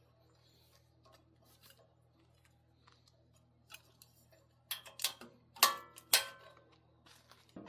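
Small metal parts being handled during bracket fitting: a few faint clicks, then a quick cluster of sharp clanks, one with a brief metallic ring, about five to six seconds in.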